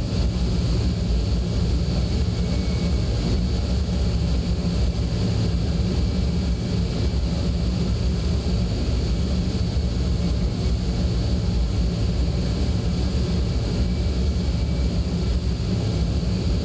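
Steady low rumble of a twin-engine Boeing 767-300ER freighter's jet engines as it climbs away after takeoff.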